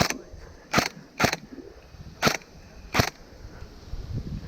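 Airsoft gun firing five single shots at uneven intervals, each a short sharp crack.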